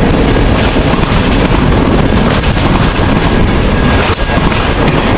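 Freight train of auto rack cars rolling past close by: a loud, steady noise of steel wheels on the rails, with short high-pitched sounds coming and going every second or so.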